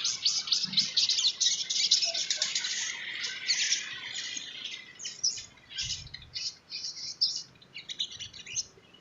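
Sogon trotol sunbird singing a fast, high chattering song of rapid chirps and trills, dense at first, then breaking into separate short chirps that stop shortly before the end. A soft low thud about six seconds in.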